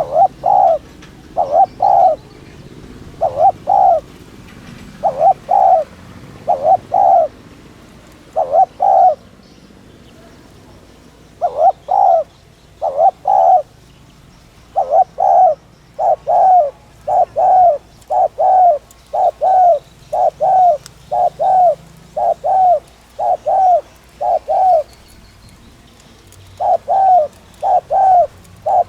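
Spotted dove cooing: short paired coos repeated in a fast run, with a couple of brief pauses. This is the rapid 'thúc' cooing that dove keepers play to rouse their birds.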